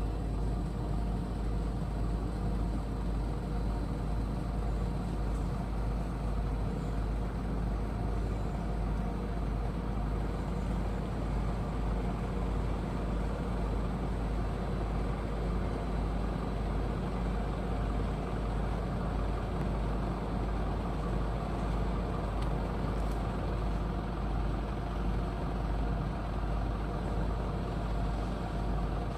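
Steady low rumble with a constant, unchanging hum, like a running engine or traffic, holding one level throughout.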